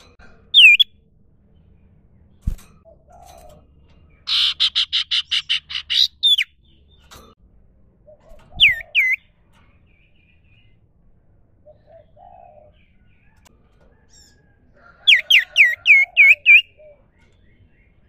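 An iora (cipoh/sirtu) singing loud, sharp whistled notes that swoop in pitch: one at first, a fast buzzy rattling trill about four seconds in, a pair of whistles near the middle, and a quick run of six whistles near the end. There is a single short knock early on.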